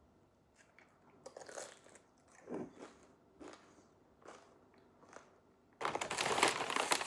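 Crunchy food being bitten and chewed close to the microphone: a few separate crunches, then a louder, longer stretch of crunching near the end.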